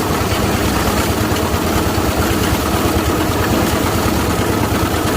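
Engine of an excavating machine running steadily with a constant low rumble.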